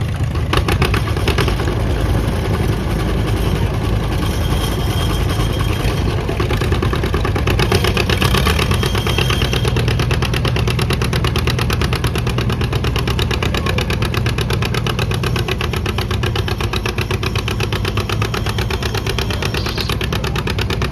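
Antique John Deere B's two-cylinder engine running hard under load as it pulls the weight sled, its firing a steady, rapid putt-putt.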